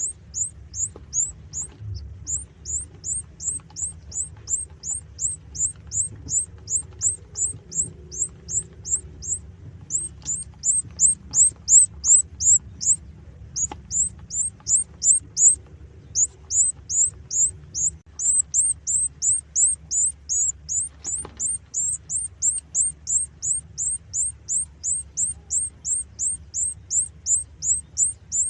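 Newly hatched canary chicks peeping: thin, high chirps that fall in pitch, repeated about two to three times a second with a few short breaks, over a faint low hum.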